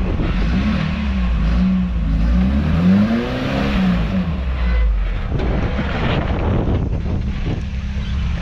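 1986 Toyota pickup's engine revving up and down several times as it crawls over rock, then running rougher with a lot of knocking and scraping noise.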